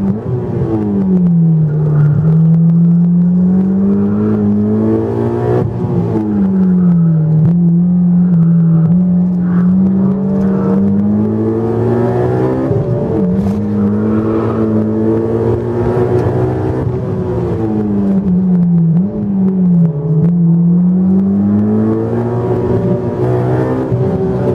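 Honda S2000's four-cylinder VTEC engine with an aftermarket JS Racing exhaust, heard from inside the cabin on track. The engine pitch keeps climbing under acceleration, then dropping sharply or easing down as the car shifts and slows for corners.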